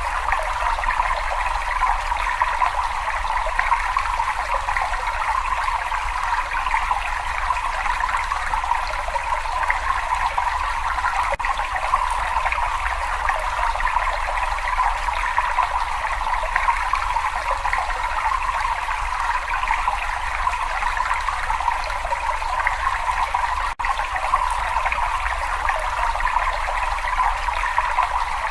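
Steady running, trickling water in a cave, an even rushing hiss with one brief dip about 24 seconds in.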